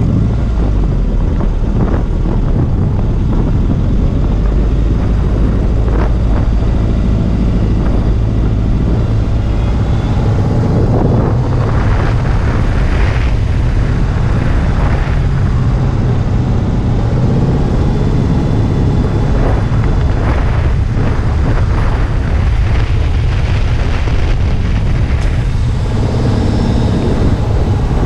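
Car engine revving up and down as the car accelerates and brakes around a cone course, over heavy wind rumble on a low-mounted outside microphone.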